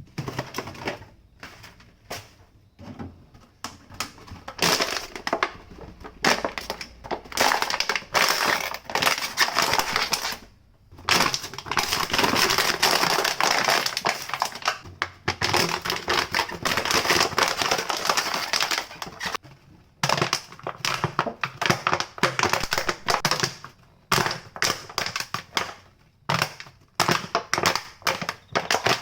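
Dense, irregular crunching and crackling from cleaning, made of many rapid small clicks, with short pauses about ten and twenty seconds in.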